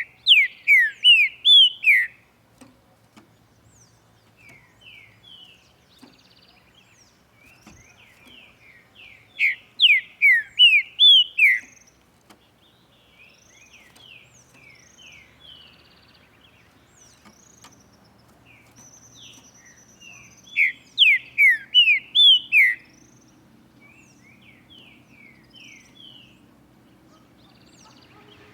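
Green-winged saltator singing: a loud phrase of about six whistled notes, each sliding downward, repeated three times roughly ten seconds apart, with fainter chirps in between.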